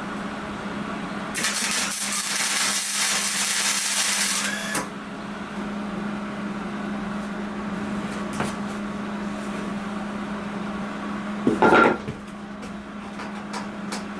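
Workshop sounds over a steady hum. A harsh hissing tool noise starts about a second and a half in and stops abruptly after about three seconds. A short, loud knock with a brief metallic ring comes about two-thirds of the way through.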